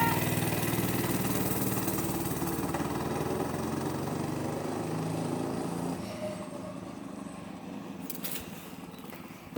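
Monster Moto mini dirt bike's small engine running under throttle as the bike pulls away, its sound fading steadily into the distance until it is barely heard by about six seconds in.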